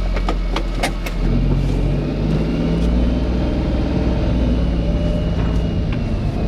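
A car driving: steady engine hum and road noise, growing slightly louder after about a second, with a few sharp clicks near the start.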